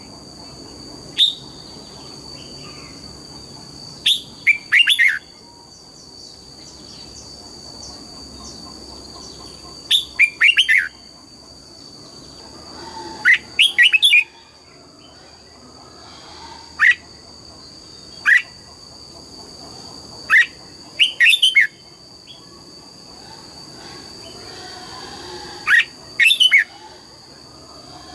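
Red-whiskered bulbul singing: short bursts of quick, falling whistled notes, repeated every few seconds, over a steady high whine.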